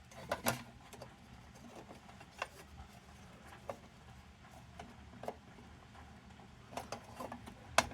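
Scattered light clicks and taps of a tool working at the parts of an old wick lantern during disassembly, a few at a time with gaps between and a short cluster near the end.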